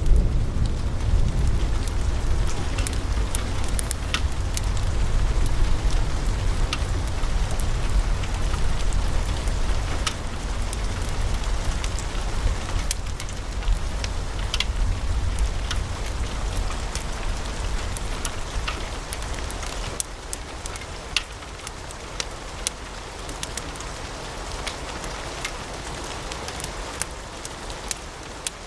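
Log fire burning in a fireplace, crackling with frequent sharp pops over a steady hiss. A low rumble of the flames is strong at first and fades away about two-thirds of the way through.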